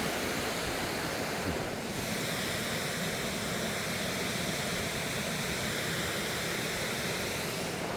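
Waterfall and fast-flowing creek rushing: a steady, even hiss of falling water.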